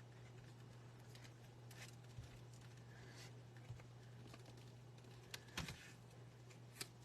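Near silence: a steady low hum with a few faint light taps and rustles of paper card pieces being handled and set down on the table.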